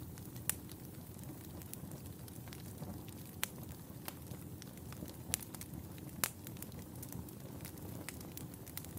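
Fire crackling in a fireplace: a steady low rumble of flames with sharp pops scattered through it, the loudest about half a second in and again near 3.5, 5.3 and 6.3 seconds.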